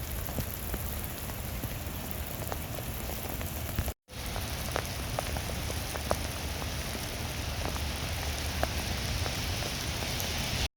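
Steady rain falling, an even hiss with scattered sharper ticks of single drops. The sound drops out for an instant about four seconds in.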